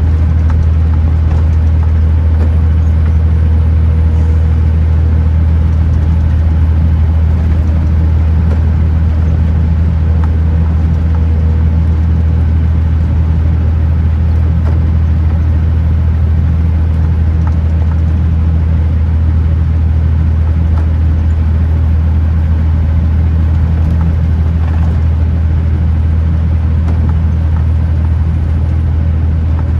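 Kenworth T909 truck's diesel engine and road noise in a loud, steady low drone while cruising at a constant speed.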